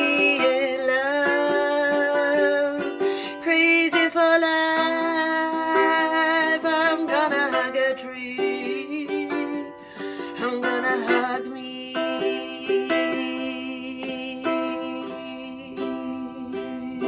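Ukulele playing the song's closing chords, with a wordless, wavering vocal line over roughly the first half, then the ukulele alone, fading out near the end.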